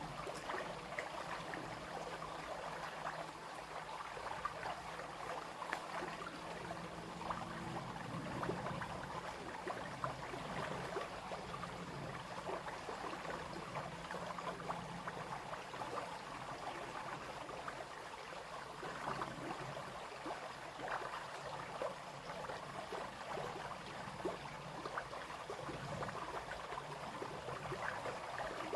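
Brook water flowing and babbling steadily over stones. A faint low hum sits under it for the first several seconds, then fades out.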